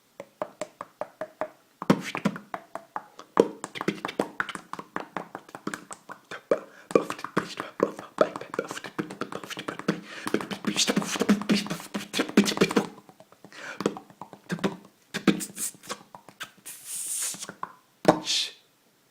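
Beatboxing: a fast, dense run of mouth-made percussive clicks and beats. Near the end it thins to a few separate strokes and one drawn-out hiss.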